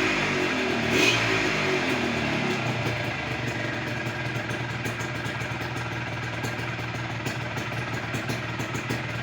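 Yamaha RX-Z two-stroke single-cylinder motorcycle engine with an aftermarket performance exhaust: a sharp throttle blip about a second in, the revs falling away, then settling to a steady idle.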